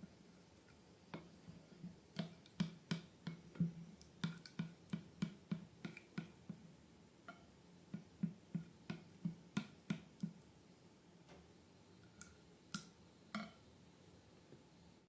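Slime being worked by hand, giving faint, sharp sticky clicks and pops at roughly two a second that thin out to a few isolated ones near the end.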